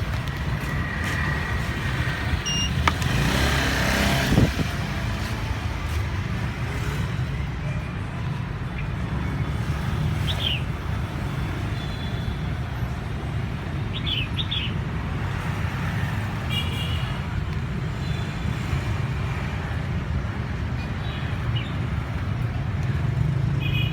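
A songbird giving short, high chirps every few seconds over a steady low rumble of road traffic, with a couple of brief knocks early on.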